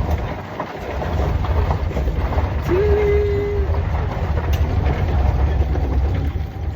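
Shuttle bus running on the road, heard from on board: a steady low engine and road rumble, with one short steady tone lasting about a second midway.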